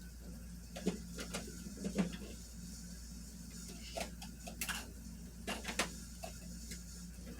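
Scattered light clicks and knocks, about a dozen irregularly spaced, over a steady low hum.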